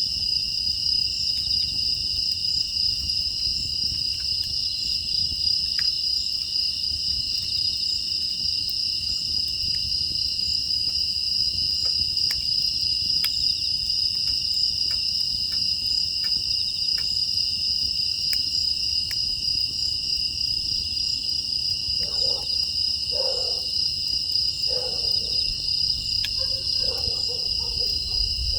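A steady chorus of crickets chirping, with sharp crackles of a burning wood fire scattered throughout. About two-thirds of the way in, a dog barks several times.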